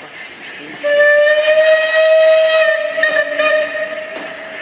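Steam locomotive whistle giving one long blast of about four seconds, starting about a second in. It is a single held note that rises slightly in pitch and fades near the end.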